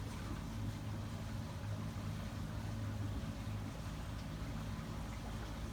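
Solar-powered boat under way ahead on its electric drive: a steady low hum with a haze of water and wind noise, holding even throughout.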